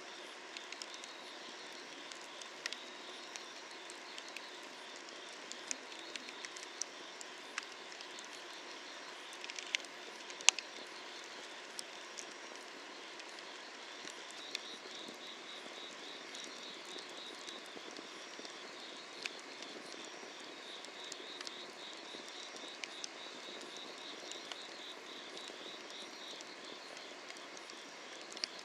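Wood fire crackling under a cast-iron cauldron, with sharp snaps and pops at irregular intervals, the loudest about ten seconds in, over a steady hiss. From about halfway, an insect chirps in a rapid pulsing trill.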